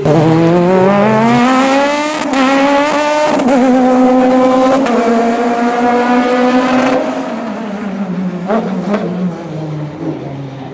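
Racing car engine at full throttle, revs climbing and shifting up about two and three and a half seconds in, then holding high revs before easing off about seven seconds in, with a short rev blip near the end.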